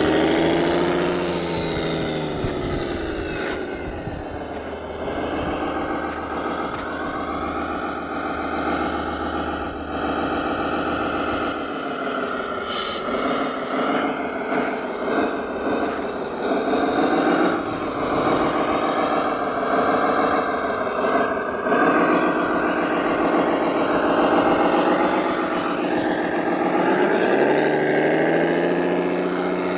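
Radio-controlled model construction vehicles running, with several engine sounds overlapping and rising and falling in pitch as the machines drive and work. A few short clicks come around the middle.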